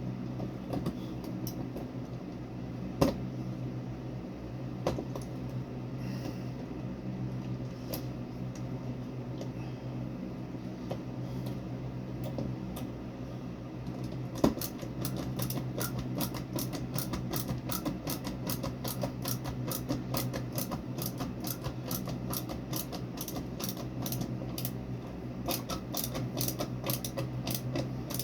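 A steady low hum with a few sharp clicks, then from about halfway a fast, even run of mechanical clicks, about three a second.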